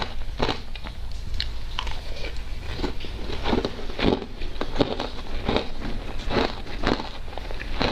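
Ice coated in matcha powder being bitten and chewed close to the microphone: a run of irregular crisp crunches, about one or two a second.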